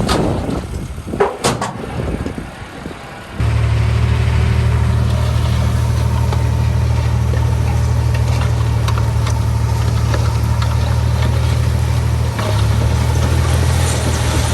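Heavy construction machine's diesel engine running at a steady speed. It comes in suddenly about three seconds in, after a stretch of wind noise and a few knocks.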